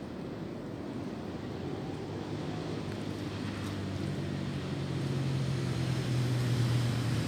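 A steady low engine hum that grows gradually louder over a constant rush of wind noise.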